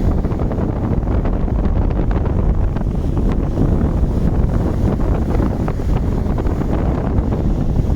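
Strong wind buffeting the microphone over stormy ocean surf: a steady, dense rumble of noise, heaviest in the low end, with no clear individual wave crashes.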